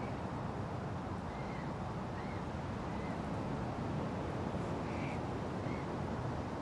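Steady wind blowing through forest trees, a constant low rush, with a bird repeating short, arched call notes about half a dozen times.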